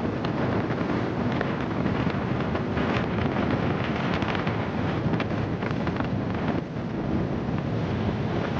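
Wind buffeting the microphone on a moving motorcycle, a steady rushing noise with frequent crackles.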